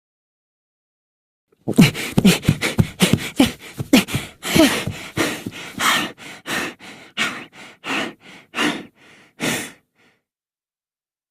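A voice making a fast run of short, separate sounds, about three a second. The run starts about two seconds in, stops about ten seconds in, and grows weaker toward the end.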